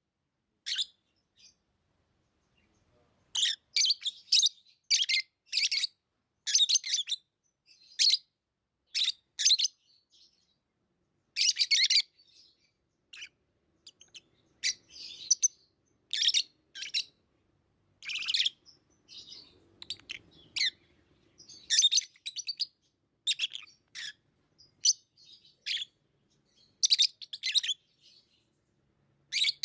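Pet lovebirds chirping: short, high-pitched calls in quick irregular runs, broken by brief pauses.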